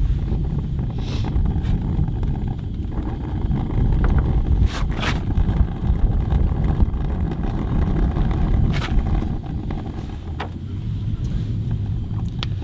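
Wind buffeting the microphone: a gusting low rumble that swells and eases, with a few sharp clicks and knocks of handling in between.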